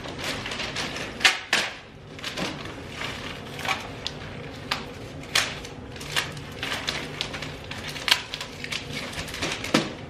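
Cardboard boxes being handled and moved about: irregular taps, knocks and rustles, a few of them sharper and louder.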